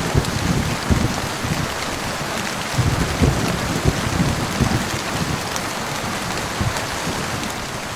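Heavy rain falling steadily, with a low, uneven rumble of thunder underneath.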